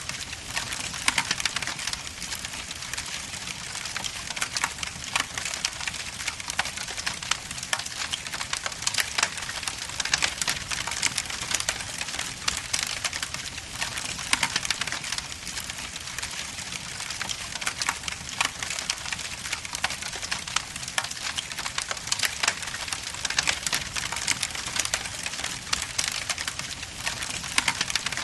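Wood logs burning in a fireplace, crackling steadily: many small irregular pops and snaps over a soft hiss.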